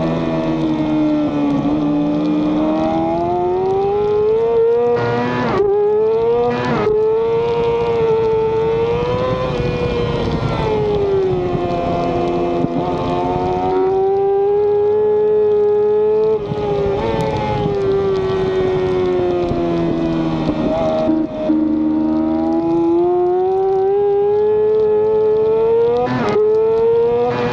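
Race motorcycle engine running hard, heard from on board over wind noise. Its note climbs and falls as the rider works the throttle and brakes, and several quick gearshifts briefly break the note.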